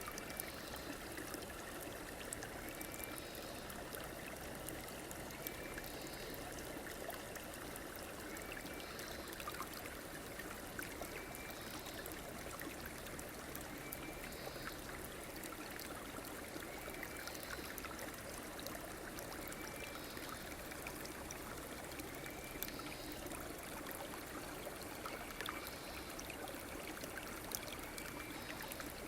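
River water flowing steadily, a continuous rushing and trickling, with a short high chirp repeating faintly every two to three seconds.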